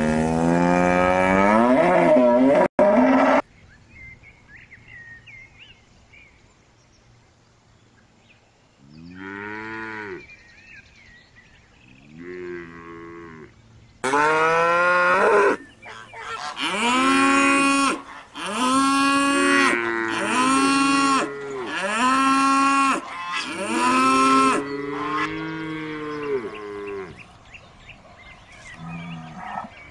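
Cattle mooing: a long, loud moo at the start, two shorter, quieter calls around ten seconds in, then a run of about six moos one after another, each rising and falling in pitch.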